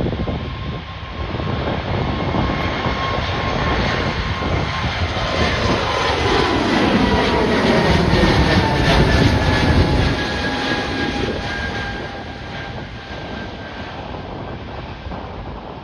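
Airliner passing close by. Its engine noise swells to a peak about nine seconds in, then fades, and its steady engine tones slide down in pitch as it goes past.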